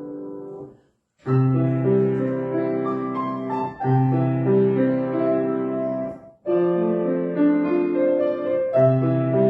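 Solo piano playing a slow piece in short phrases of chords and melody. Each phrase breaks off briefly: about a second in, again near four seconds and just after six seconds.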